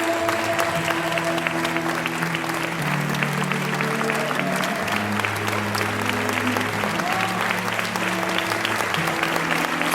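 Audience applauding, dense clapping throughout, over music with slow, held low notes that change every second or two.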